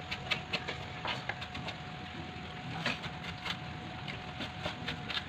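Kitchen knife mincing on a cutting board: irregular sharp chopping knocks, a few per second, over a faint steady hum.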